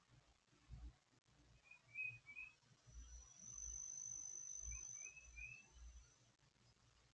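Near silence with faint background sounds: a few small groups of short high chirps, a thin high steady tone lasting a few seconds in the middle, and soft low thuds.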